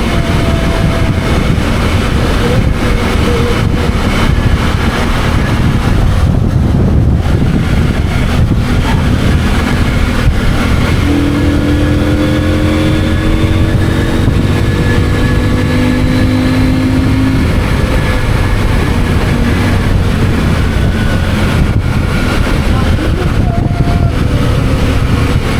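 CFMOTO 800MT's parallel-twin engine running on the move, heard through steady wind rush on the microphone. For several seconds in the middle, a clear engine note rises slightly in pitch and then drops away.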